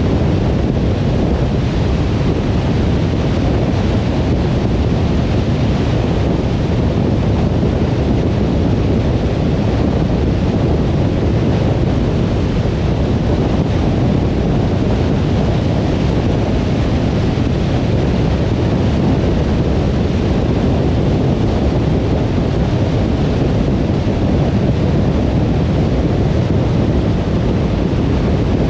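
Steady road noise of a car driving: a constant low rumble from the tyres and engine, with wind noise mixed in.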